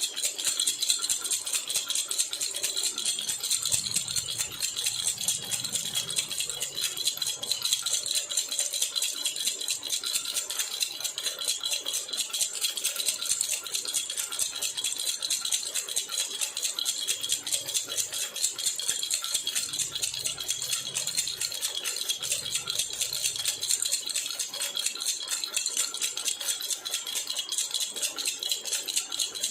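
Jhunjhuna baby rattle shaken continuously and rapidly, a steady bright metallic jingling.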